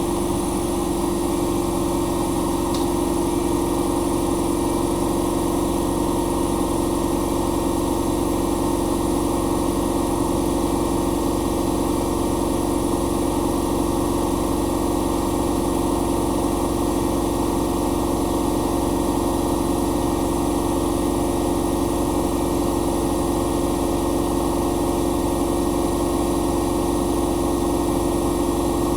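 Bosch Maxx Advantage WFCX2440 slimline front-loading washing machine spinning at high speed: a steady machine hum with a constant tone that holds level and pitch throughout.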